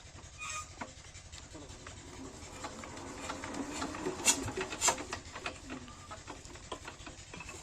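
Single-cylinder diesel engine of a 7HP water-pump set running steadily with a fast low thudding beat, under rubbing and scraping handling noises that pick up in the middle, with two sharp clicks about four and five seconds in.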